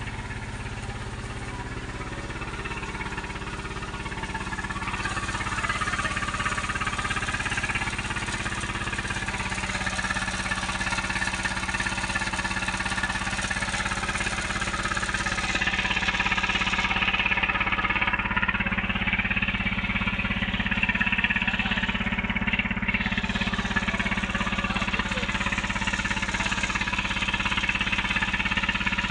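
Tractor engine running steadily, growing louder about four to five seconds in and holding there.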